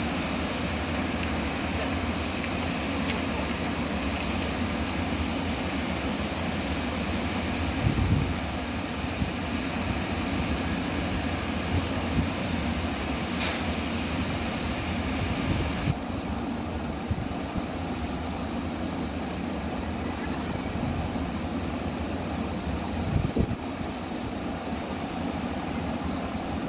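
JR West 923-series Doctor Yellow shinkansen inspection train rolling slowly into the station and slowing: a steady rumble of wheels and running gear. There are two short thumps, one about a third of the way in and one near the end, and a brief high hiss about halfway.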